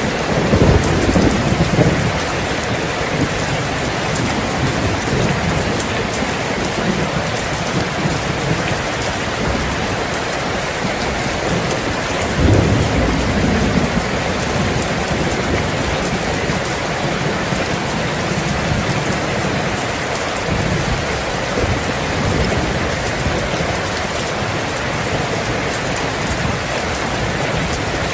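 Steady rain, with low rolls of thunder: one at the start and another about twelve seconds in.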